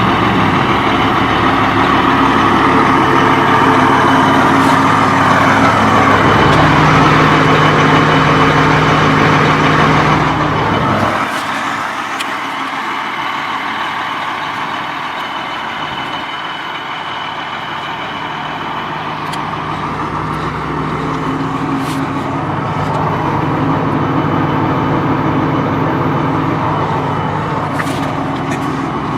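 Blue Bird TC2000 school bus engine running with a steady low drone. About eleven seconds in the low engine sound drops away and the level falls, then it builds again in the last third.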